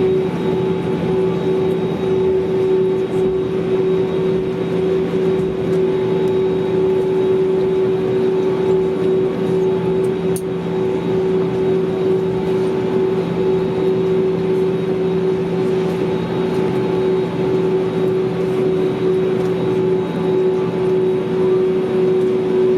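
Steady cabin noise inside an Airbus A320neo: an even rush of engine and airflow noise carrying a constant two-note hum, with no change in level.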